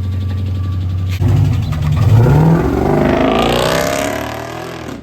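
A car engine running steadily, then revving about a second in, its pitch rising before it fades and cuts off.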